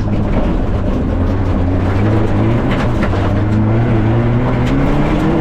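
Fiat Egea 1.4 T-Jet rally car's turbocharged four-cylinder engine heard from inside the cabin at stage speed, its pitch dipping a little and then climbing steadily through the second half as it accelerates. A few short sharp knocks come through around the middle.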